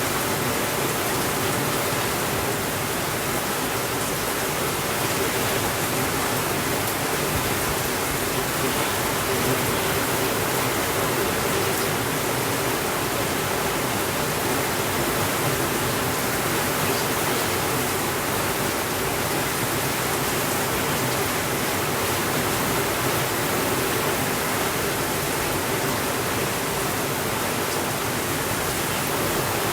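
Steady rainfall, an even unbroken hiss with no rises or pauses.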